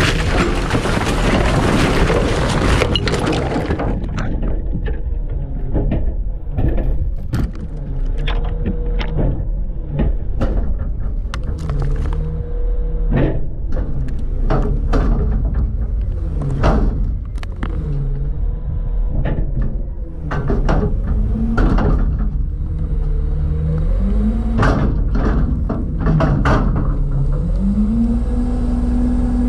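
Front-load garbage truck's diesel engine running, its pitch repeatedly falling and rising as it revs, under a rapid run of clanks and bangs from the hopper body. A dense crashing rush fills the first three seconds, and near the end the engine revs up and holds.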